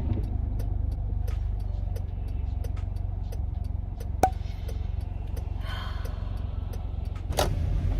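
Car road noise heard from inside the cabin: a steady low rumble, with a light ticking about twice a second over it.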